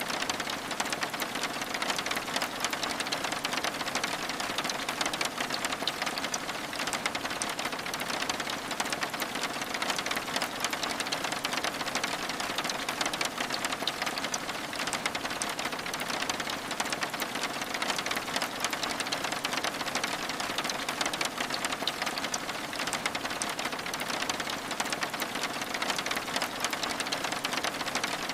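Steady rain pattering on window glass: an even hiss of falling drops, thick with tiny rapid ticks.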